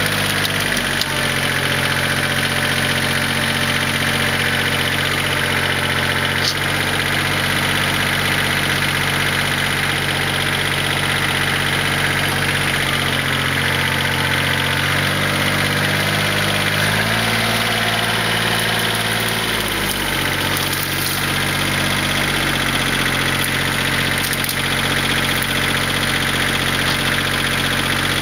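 Kioti LB1914 compact tractor's three-cylinder diesel engine running, its speed stepping up and down several times.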